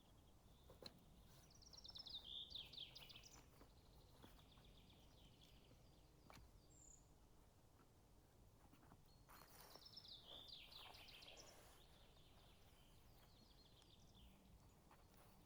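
A songbird singing two similar phrases, each a quick run of high notes that steps down in pitch, about a second and a half in and again near the middle, over a quiet forest background with a few faint clicks.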